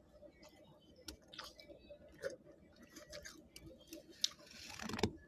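A person chewing frost: irregular crisp crunches and clicks, with a louder stretch of crunching near the end.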